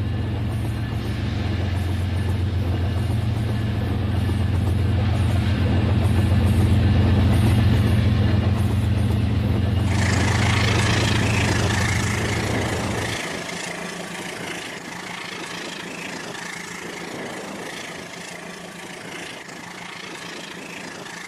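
Rail King battery-powered toy train running, with a steady low engine-like hum. A hissing noise joins about halfway through, and the hum stops a few seconds later, leaving the hiss at a lower level.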